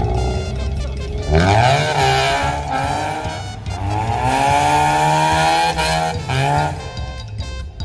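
Mazda RX-8's two-rotor rotary engine revving hard with tyre squeal as the car drifts. The revs climb sharply about a second in, hold high for several seconds, then drop near the end.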